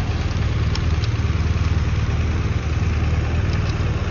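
Car engine idling steadily with a loud exhaust note: the muffler has been cut off.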